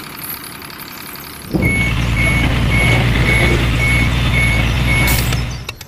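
A truck's engine idles quietly, then runs much louder about a second and a half in. A reversing alarm beeps steadily, about two to three times a second, over the louder engine. Both cut off abruptly near the end.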